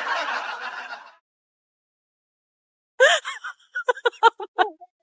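A long harsh, raspy noise, then, about three seconds in, a run of quick, high giggling laughs lasting under two seconds.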